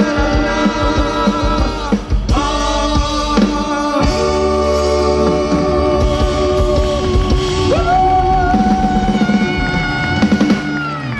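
Live Balkan-style folk band playing with accordion, double bass, drum kit and singing voices. Near the end the song closes on long held notes that stop together.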